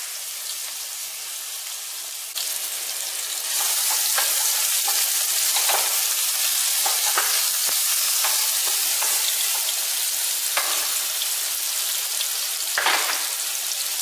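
Sliced ginger and minced garlic sizzling in hot oil, the sizzle growing louder a couple of seconds in. A wooden spatula stirs them, giving a few short scrapes and taps on the pan.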